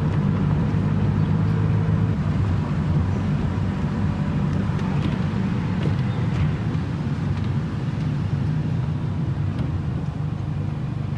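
MINI Cooper S R53's supercharged four-cylinder engine running steadily, its exhaust with the resonator removed and only the muffler remaining.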